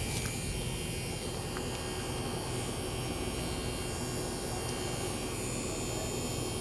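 A steady low hum with an even hiss, no clear change or event.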